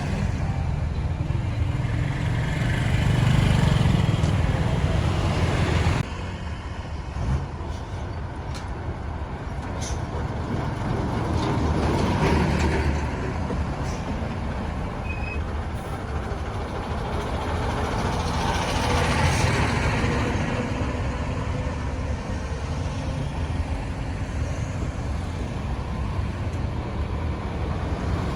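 Busy road traffic: engines of trucks, cars and motorbikes running, a steady rumble that swells several times as vehicles pass close by.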